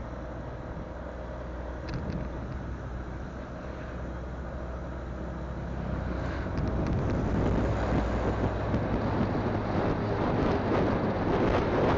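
Motorcycle engine running on the move, with wind rushing over the microphone; the wind noise grows louder about halfway through.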